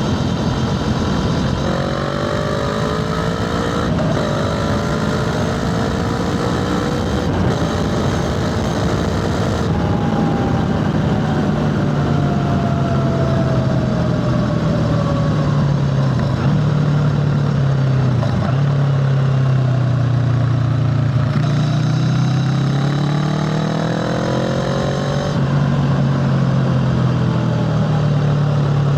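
Motorcycle engine running under way, its pitch rising as it accelerates from about two seconds in, dropping back for several seconds, then climbing again near the end, over steady wind and road rush.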